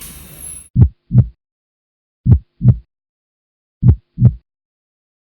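Newborn heart sounds through a stethoscope: a slow lub-dub, three double beats about 1.5 s apart, roughly 40 beats a minute. A rate well under 100 a minute is a bradycardic newborn heart.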